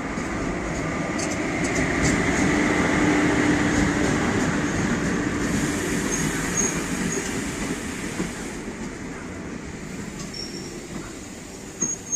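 Train running on the rails: its rumble swells to a peak about three seconds in and slowly fades. Faint high wheel squeals come in briefly later on.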